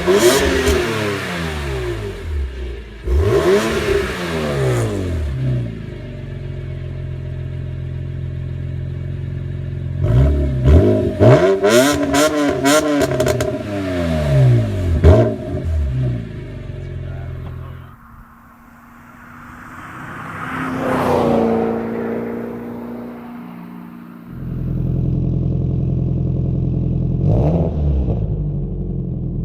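Car engines with aftermarket exhausts revving in short blips, the note climbing and falling back, with steady idling in between. Partway through the engine note drops away abruptly, another note swells and fades, and a different engine idles with two short blips near the end.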